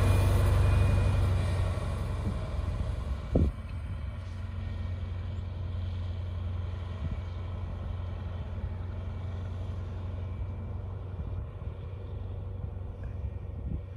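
Bluebird Wanderlodge motorcoach's diesel engine running steadily at idle after a no-start, now kept running by a temporary fix to its fuel shutoff solenoid. The low rumble drops in level about two seconds in. A single sharp knock comes about three and a half seconds in.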